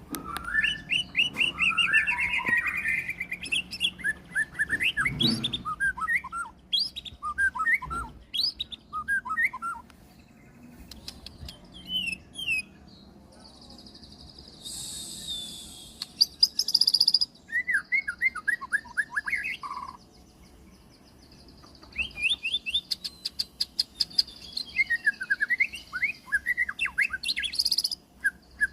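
White-rumped shama (murai batu) singing a long, varied song of whistles, fast trills and sweeping notes, packed with mimicked phrases, with a harsher buzzy stretch about halfway through.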